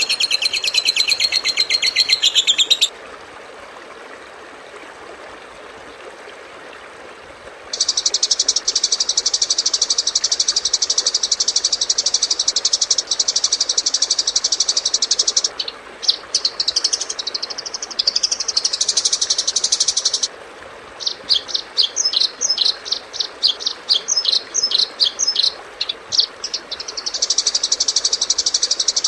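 Songbird tutor recording: long bursts of rapid, high, dense trilling alternate with a more varied song and a run of quick separate chirps, with a short lull between.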